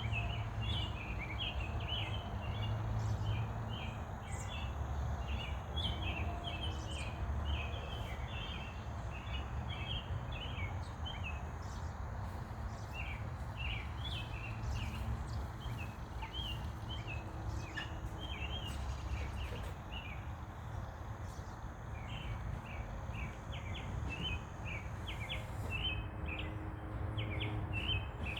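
Birds chirping: a dense run of short, high calls that goes on with only brief lulls, over a steady low rumble.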